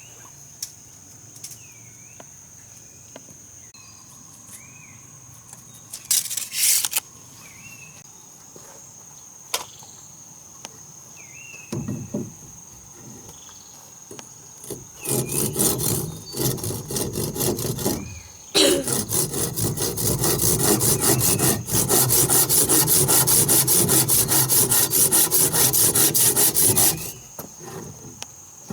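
Wood being sawn in quick, even strokes. The sawing comes in short spurts about halfway through, then runs steadily for several seconds and stops near the end, over a steady high insect drone and bird chirps.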